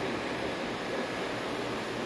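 Ecovacs Deebot U2 Pro robot vacuum-mop running as it cleans the floor: a steady, even hiss from its suction.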